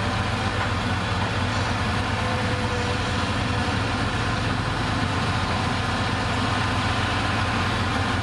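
Bulldozer's diesel engine idling steadily, a low even drone.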